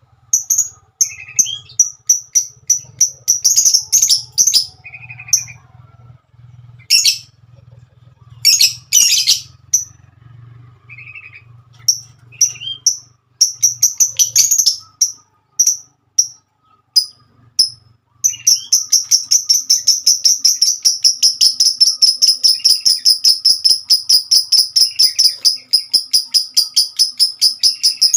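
Lovebird chirping: sharp, high, scattered chirps at first. About two-thirds in they break into a long, unbroken, rapid chatter of about five chirps a second.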